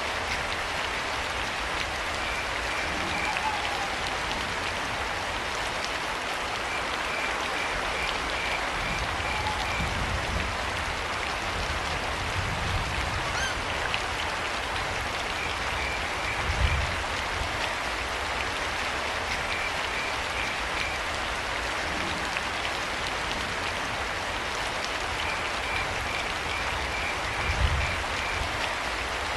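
Steady rain, with crickets chirping in short pulsed trills every few seconds. There are two low thuds, one just past halfway and one near the end.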